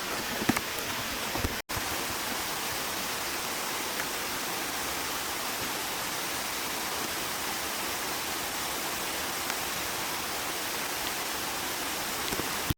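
Mountain stream running fast close by: a steady, even wash of water noise. It cuts out for an instant just under two seconds in.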